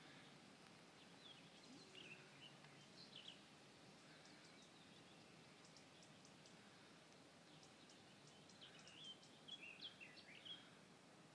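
Faint birdsong: short chirping phrases from small birds about two seconds in and again near the end, with faint high ticks in between, over quiet outdoor background noise.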